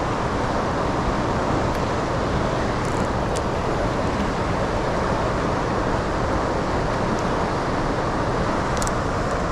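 Steady rushing roar of turbulent tailwater below a hydroelectric dam with its turbine running.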